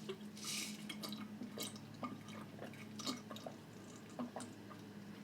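Close-miked wet chewing and lip-smacking sounds from someone eating, coming as a few short, scattered smacks, over a faint steady low hum.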